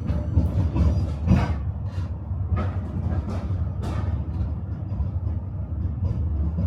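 Tram running on rails: a steady low rumble with irregular sharp knocks of the wheels over rail joints, most frequent in the first four seconds.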